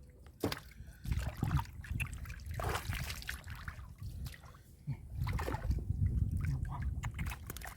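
Shallow water splashing and sloshing in irregular bursts as hands grope through it to catch fish.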